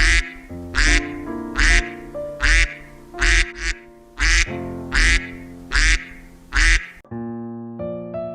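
A duck quacking, about nine evenly spaced quacks that stop about seven seconds in, over background music with piano-like notes.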